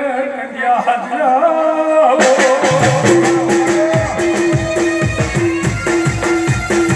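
Gujarati devotional folk music. A singer holds a wavering sung line, then about two seconds in the band comes in with drums, rattles and a repeated pulsing note in a steady beat.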